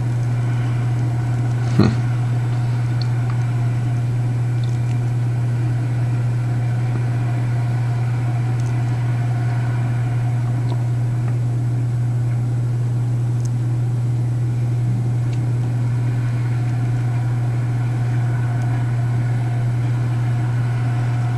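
A steady, unchanging engine drone with a low hum and several steady higher tones, with a single short click about two seconds in.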